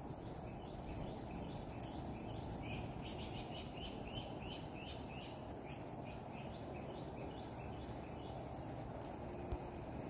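A bird calling a long run of short repeated chirps, two or three a second, which stop about seven seconds in, over a steady outdoor background hiss. A few faint clicks.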